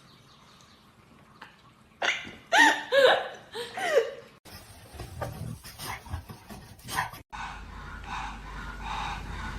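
A dog making several loud, short pitched calls that bend up and down in pitch, followed by scattered short sounds and softer repeated calls.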